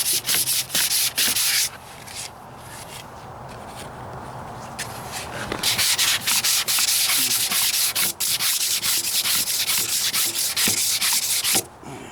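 Sandpaper worked by hand over cured body filler and spot glaze on a truck's steel rocker panel, smoothing out the coarser-grit scratches. It gives quick back-and-forth strokes of hiss, softer for a few seconds in the middle, then stronger again before stopping just before the end.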